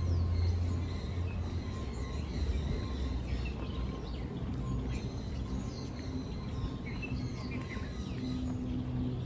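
Outdoor ambience of small birds chirping faintly and irregularly over a steady low hum.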